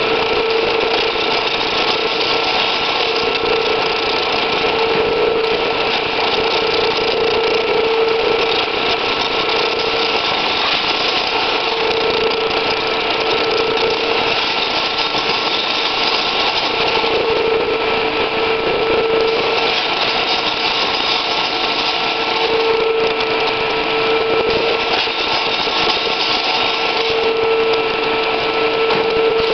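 Sheet-metal edge-curling machine running steadily, its motor hum swelling every few seconds over a constant whirr.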